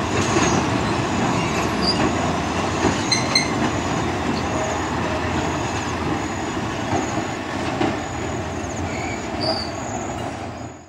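Passenger train coaches rolling at a crawl over a wooden trestle railway bridge overhead: a steady rumble with a few sharp wheel clicks about three seconds in. The sound eases as the last coach passes and fades out at the very end.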